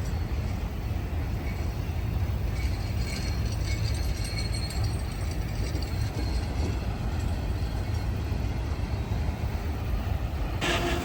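Freight train's diesel locomotives rumbling steadily, growing louder with a tonal note about ten and a half seconds in.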